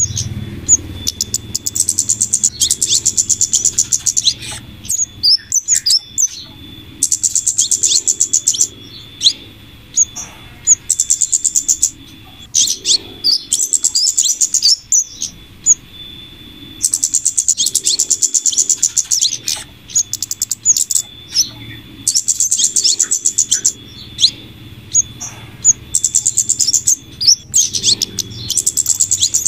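Bird-lure recording of flowerpecker calls mixed with female scarlet minivet calls. Bursts of rapid high-pitched ticking, each about two seconds long, repeat every few seconds, with short single chirps between them, over a faint steady hum.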